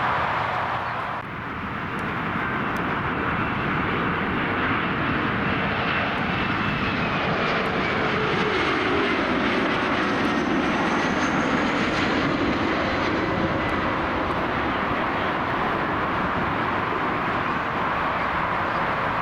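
Jet airliner engines passing overhead with a steady rush and a whine that slowly falls in pitch as the aircraft goes by.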